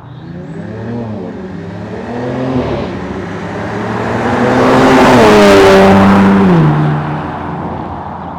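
Dodge Charger's twin-turbo 3.0-litre inline-six accelerating through a MagnaFlow SPEQ Series cat-back exhaust. The engine note rises, drops briefly about two and a half seconds in, climbs again to its loudest about five to six seconds in, then falls in pitch and fades.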